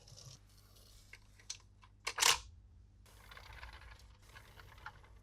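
Toy and packaging handling: scattered small plastic clicks, one louder sharp snap just after two seconds in, then soft rustling.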